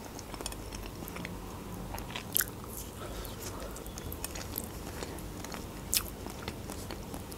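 A person chewing food close to the microphone, with small wet mouth clicks and smacks; a louder click comes about two and a half seconds in and again at about six seconds.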